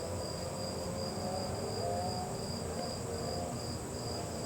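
Crickets chirping steadily, a high pulsed trill of about three chirps a second, over a constant higher insect hum.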